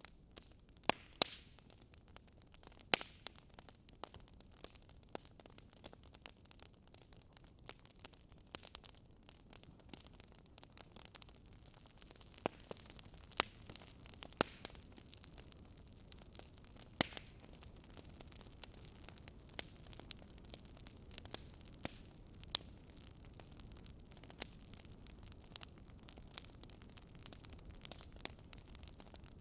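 Fireplace crackling: irregular sharp pops and snaps of the burning wood over a faint, steady hiss, with a handful of louder snaps scattered among the small ones.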